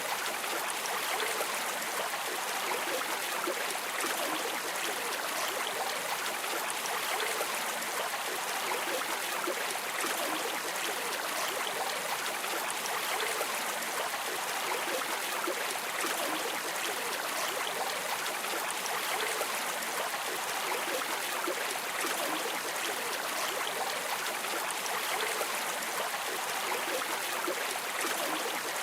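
River or stream water flowing steadily, a continuous rushing and trickling.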